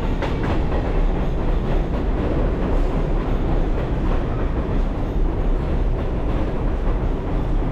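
New York City subway train (6 line) running, a steady rumble with faint clicks now and then.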